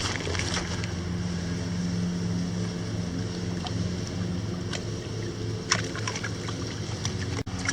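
An engine or motor runs steadily with a low hum, with a few sharp clicks on top, the clearest near six seconds in.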